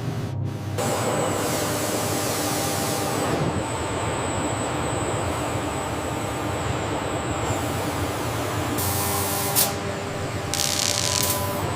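Factory machinery running with a steady rumble and a thin high whine. Near the end come two short hisses of released air, with a sharp click between them.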